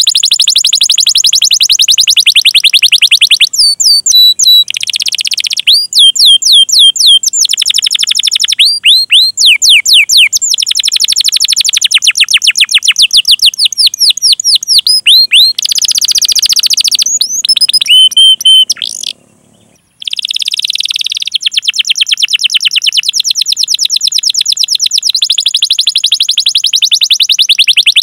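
Domestic canary singing: long, very fast rolling trills of high repeated notes, mixed with phrases of quick falling chip notes ('cuit cuit' calls). The song breaks off for about a second a little past two-thirds of the way, then rolls on.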